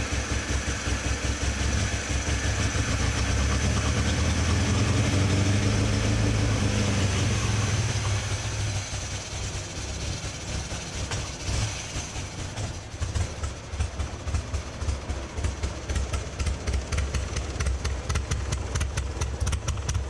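1974 MGB's 1.8-litre four-cylinder engine running cold after a choke start, a steady hum for about eight seconds. Then the revs drop and it settles into a lower, uneven idle of regular exhaust pulses.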